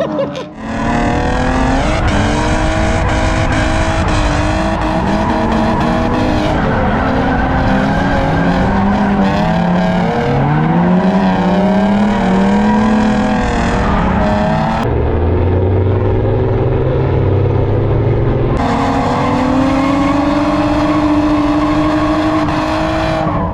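BMW E36 drift car's engine revving hard and rising and falling in pitch as it is driven through slides, heard from inside the cabin. The sound changes abruptly twice, about two-thirds of the way through and again a few seconds later.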